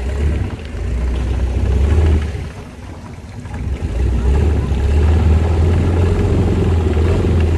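Longtail boat engine running with a deep steady rumble, easing off about two and a half seconds in and picking up again about a second later as the boat gets under way.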